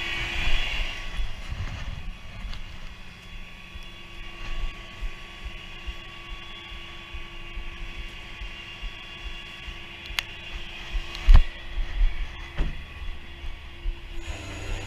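Tow truck running steadily, a low rumble with a constant hum. Several sharp clicks and knocks come near the end.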